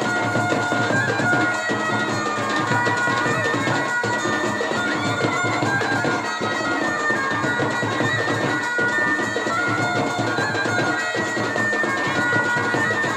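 Traditional band music: a loud, reedy, shawm-like wind instrument plays a held, wavering melody over drums.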